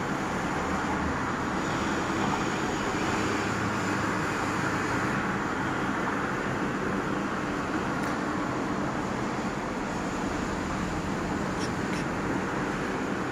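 Steady outdoor background hum of distant road traffic, with no thunder to be heard because the lightning is still too high overhead.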